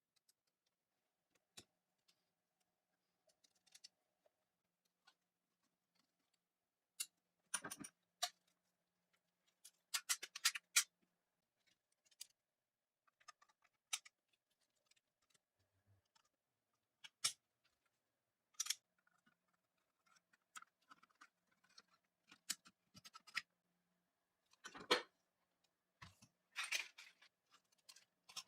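Scattered clicks, taps and short scrapes of hand tools and small metal parts being handled, with no steady machine sound.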